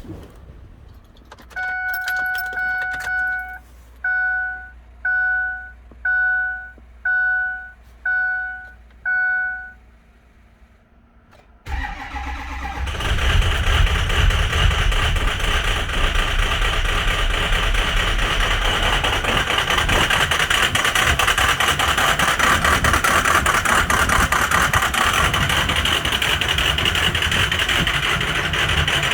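Dashboard warning chime: a long tone, then six short beeps about one a second. About 12 s in, the starter cranks and a Ford 6.0 Powerstroke V8 turbo-diesel fires and runs at a loud, clattery cold idle, with some injectors bad.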